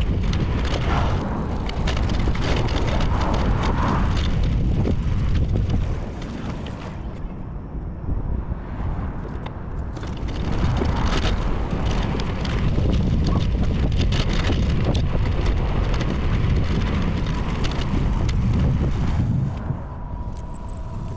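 Wind buffeting the microphone of a bicycle-mounted action camera while riding, with road and bike rumble and scattered rattling clicks; it eases off about six seconds in, picks up again around ten seconds, and eases off once more near the end.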